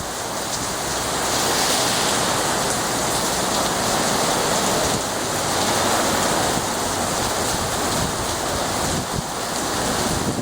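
Rain falling steadily, a continuous hiss that grows a little louder about a second in.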